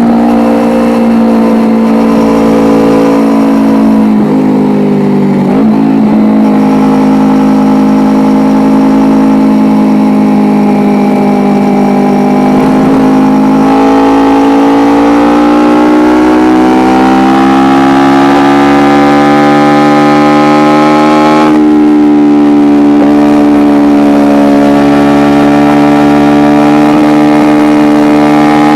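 Kawasaki Ninja 250R's parallel-twin engine with an Akrapovic exhaust, running at high revs while riding. Its pitch dips about five seconds in, climbs slowly through the middle and holds steady near the end.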